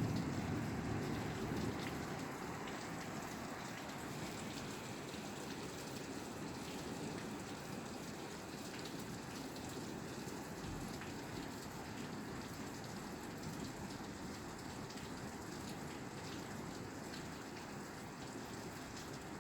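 Steady rain pattering on a roof. A low rumble at the start fades away over the first few seconds.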